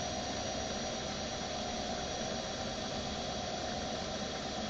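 Comet 3KVHD milling machine running with a steady, even whine, and no cutting or change in speed heard.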